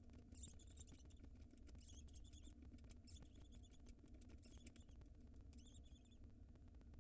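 Barn owl nestling giving faint, high, chittering calls, about five short calls a little over a second apart, over a low steady hum.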